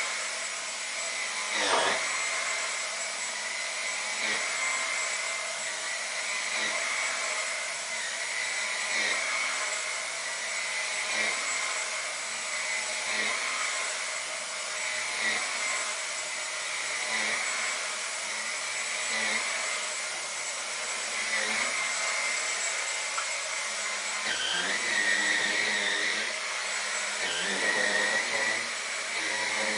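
Dyson V10 Animal cordless vacuum cleaner running with its turbine brush head, a steady high whine that shifts slightly every couple of seconds as the head is worked over sofa fabric.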